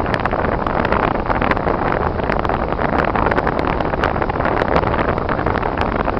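Car driving on icy, snow-covered roads: steady road, tyre and engine noise, with frequent sharp ticks scattered through it.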